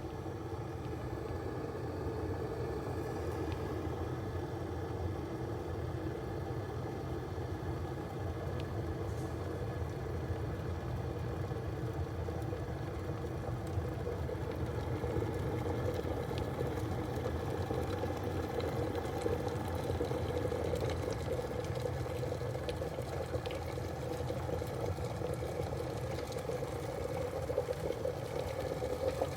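Electric kettle heating water: a steady rumbling hiss that slowly grows louder as the water nears the boil.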